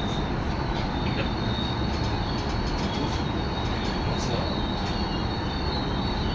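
Inside a moving electric commuter train on the Nambu Line: steady rumble of wheels on the rails and car noise, with a thin high steady whine over it.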